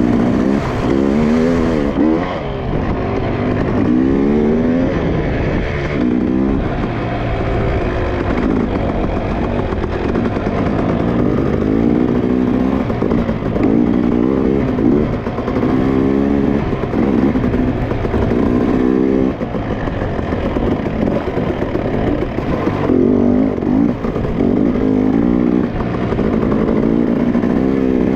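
Dirt bike engine being ridden hard, its pitch climbing and dropping over and over as the throttle is opened and closed.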